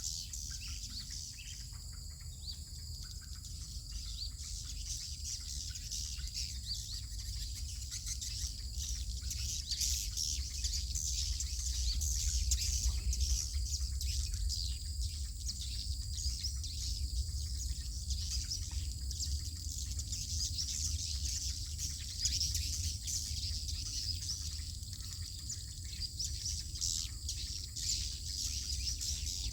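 Many edible-nest swiftlets twittering together: a dense, unbroken stream of short high chirps, over a steady low rumble.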